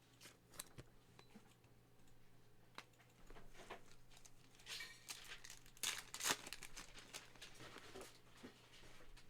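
Faint handling of trading cards and their packaging: soft clicks and slides of cards, with louder crinkling rustles about five and six seconds in.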